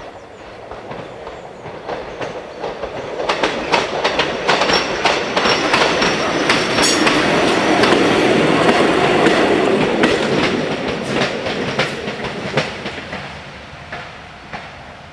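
A two-car diesel railcar train passing over a level crossing: its running noise builds up, peaks about halfway through and fades toward the end, with rapid clicking from the wheels over rail joints and the crossing.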